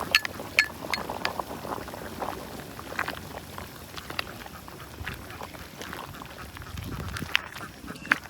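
Ducks quacking among scattered sharp clicks and knocks.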